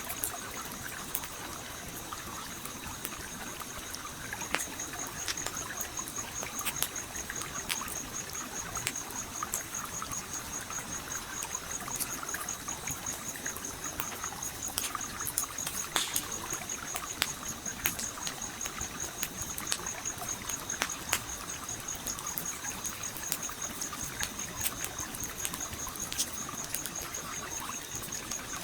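Campfire crackling with scattered sharp pops over the steady trickle of a flowing stream. A high, rapidly pulsing tone sets in about four seconds in and keeps going.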